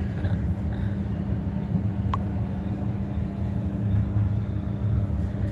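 Light-rail train running, heard from inside the carriage: a steady low rumble with a constant hum. A single brief click comes about two seconds in.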